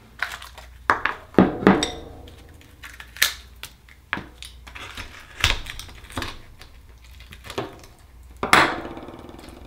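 Akoya pearl oyster being pried open and searched for its pearl: irregular sharp clicks and knocks of shell and tool, with the loudest knock near the end.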